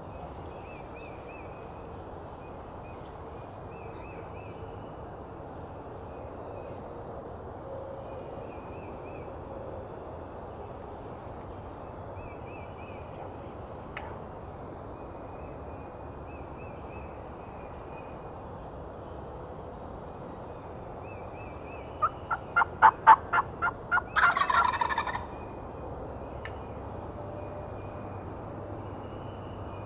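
Wild turkey gobbler gobbling loudly near the end: a quick run of about eight notes that breaks into a fast rolling rattle. Faint small-bird chirps sound over a steady outdoor hiss.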